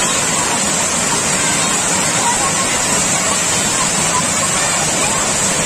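Water pouring over an overflowing dam, a loud steady rush with no let-up.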